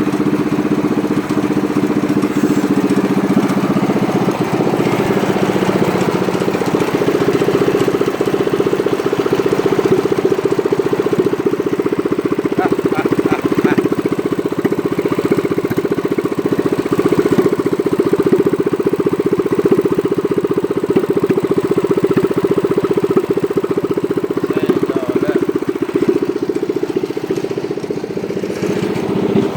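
Small single-cylinder four-stroke engine running steadily at a low, even speed.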